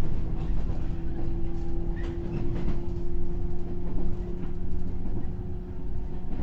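JR 103-series electric train running at steady speed, heard from inside the motor car: an even hum from its MT55 traction motors and gearing over the rumble of the wheels, with a few faint clicks from the track.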